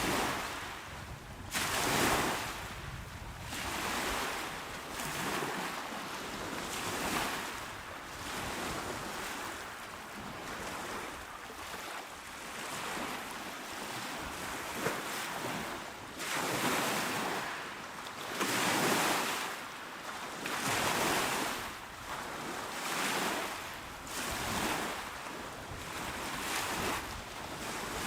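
Calm sea waves breaking and washing onto a shore: a steady rushing hiss of surf that swells and fades every couple of seconds.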